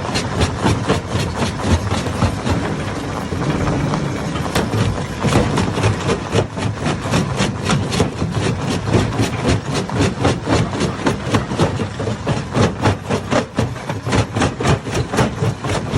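Hammer-type stone crusher running under load, its engine droning while rocks are smashed inside it in a fast, steady stream of sharp knocks, about three to four a second.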